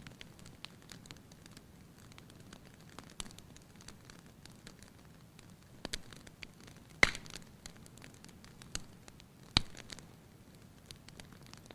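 Wood fire crackling in a fireplace: a steady scatter of small crackles, with two loud sharp pops a little past halfway and again about two and a half seconds later.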